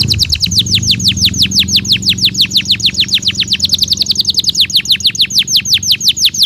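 Belgian canary singing a long, rapid trill of downward-sweeping notes, about eight to ten a second, spacing out slightly toward the end, over a low steady hum.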